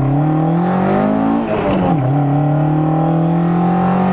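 Toyota AE86's swapped-in 4A-GE 20-valve blacktop four-cylinder accelerating hard, heard from inside the cabin. The revs climb, drop sharply at an upshift between one and a half and two seconds in, then climb again more slowly in the next gear.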